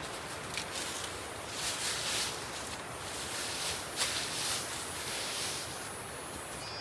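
Rainforest ambience: irregular rustling in leaves over a steady background hiss, with a few faint, thin, high notes near the end.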